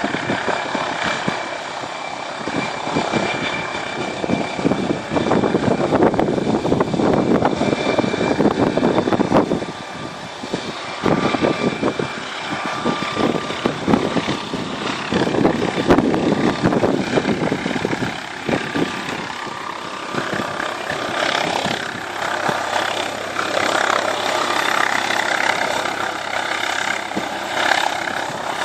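Helicopter rotor and engine running continuously, the sound swelling and fading as it works around the lighthouse.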